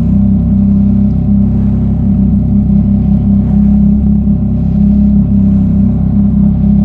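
Yamaha MT-09 SP's three-cylinder engine through a Mivv X-M50 straight-through exhaust, running at a fairly steady pace while riding, with small rises and dips in throttle. It is really loud.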